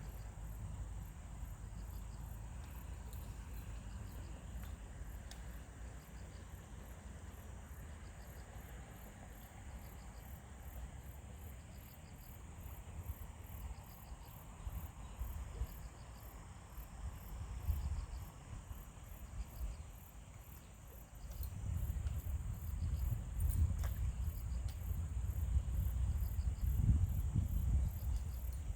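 Insects chirping in an even, repeating rhythm, with a low rumble underneath that grows louder about two-thirds of the way through.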